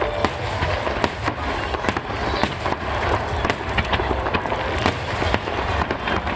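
Aerial fireworks bursting in rapid succession: sharp bangs and crackles, several a second, over a continuous low rumble.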